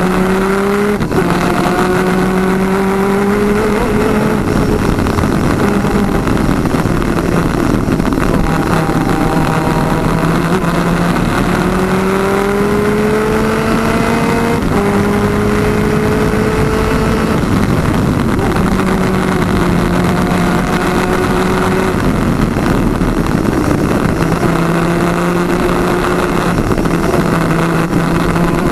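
Twin-engine 250cc two-stroke superkart at racing speed, heard on board over heavy wind rush. The engine note climbs steadily and drops sharply several times, as at gear changes.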